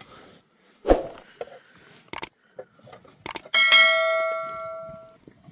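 A few short knocks, then a single bell-like metallic ring about three and a half seconds in, struck sharply and fading away over about a second and a half.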